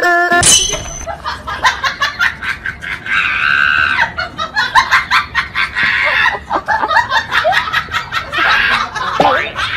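People laughing in quick, high-pitched bursts, with a rapid run of clicks throughout.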